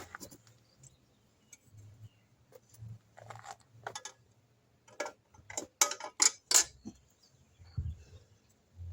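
Scattered sharp clicks and light clinks of small parts or tools being handled, with a cluster of louder clicks about five to six and a half seconds in and a dull knock near the end.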